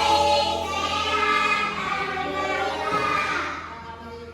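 Music with singing voices holding sustained notes, fading out near the end.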